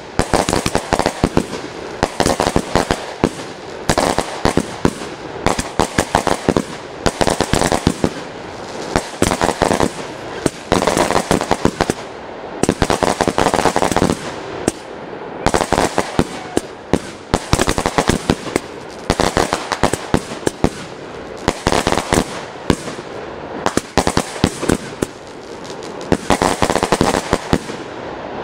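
Fireworks going off continuously: dense volleys of sharp cracks and pops, one volley after another about every one and a half to two seconds, with no break.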